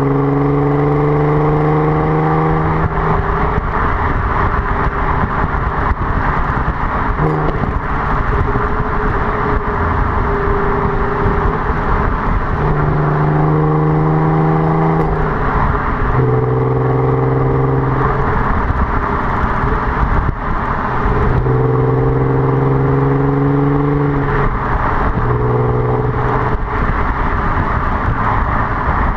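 Audi TT 3.2's narrow-angle V6 engine running through a non-resonated Milltek exhaust, with a steady exhaust drone that comes in for a few seconds, fades, and returns several times under a constant rush of noise.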